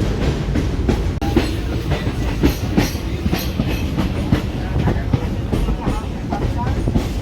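Passenger train running along the track, a steady low rumble with irregular clicks and knocks as the wheels go over rail joints.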